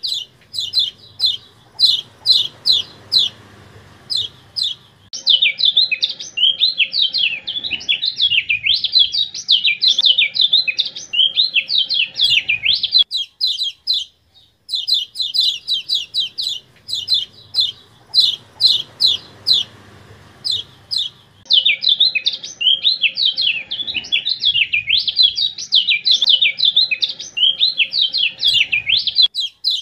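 Kecial kuning (a white-eye songbird) singing: a run of short, sharp 'ciak' notes, then a fast, jumbled warbling chatter. The song breaks off about halfway through and the same sequence repeats, as a looped training track.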